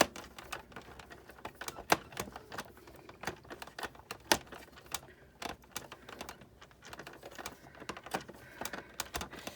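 Irregular clicks and taps of hand tools against the plastic and metal parts of a Big Shot die-cutting machine being taken apart, with two louder clicks about two and four seconds in.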